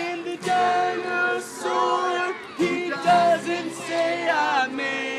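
A group of voices singing a children's song together, as a choir.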